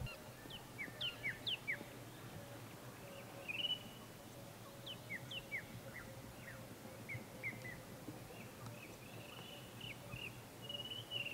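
Small wild birds calling: runs of quick, high, sliding chirps and a few short warbled whistles, over a faint steady low hum.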